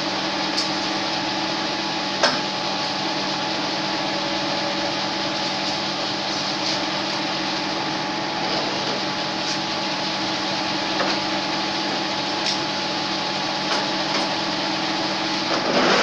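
Metal lathe running steadily while drilling a 24 mm hole into the workpiece: a constant motor and gearbox hum with a few light clicks. Near the end the sound grows louder and rougher.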